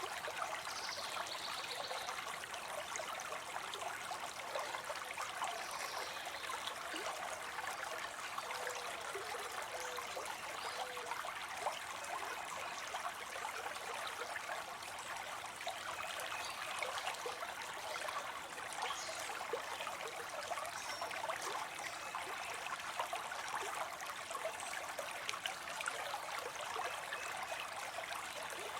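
Water spilling into a pond: a steady, even splashing and trickling of falling water.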